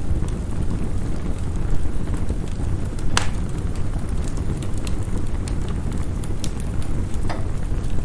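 Wood fire crackling with scattered sharp pops, the loudest about three seconds in, over a steady low rumble of snowstorm wind.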